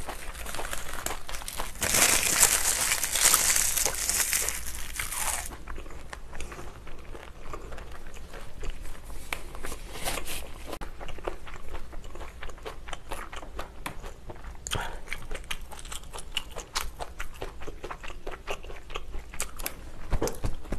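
Close-miked mouth chewing and crunching of kimchi: many wet clicks and crunches, with a loud spell of dense crunching about two seconds in that lasts some three seconds, and shorter flurries later.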